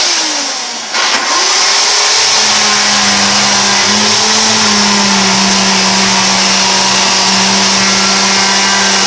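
Makita UC3541A electric chainsaw motor and chain running hard through a damp baulk of timber. The motor dips and picks back up about a second in, then holds a steady hum under load and stops at the end.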